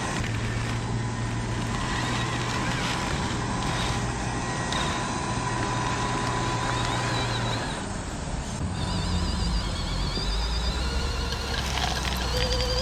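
Radio-controlled construction machinery running: a steady motor hum that shifts to a lower pitch about eight seconds in, followed by a high warbling whine.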